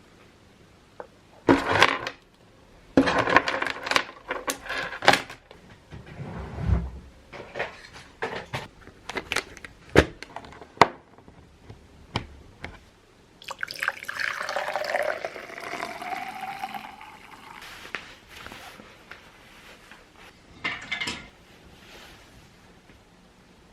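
Kitchen sounds: dishes and utensils clinking and clattering, then liquid poured into a vessel for a few seconds, the pitch rising as it fills, and another brief clatter near the end.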